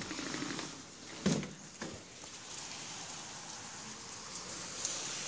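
Heavy rain pouring steadily outside, coming in suddenly louder at the start as a window is opened. A single loud thump comes about a second in.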